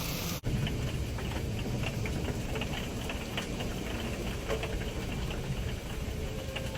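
Rain on a small camper's shell: scattered drops tick irregularly over a steady low rumble, starting just after a sudden cut.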